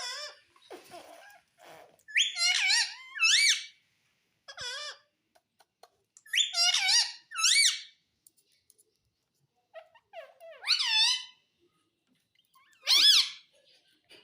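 Pet parrot making short, high, squeaky calls in four groups of one to three notes, each note sweeping up and down in pitch; the single call near the end is the loudest.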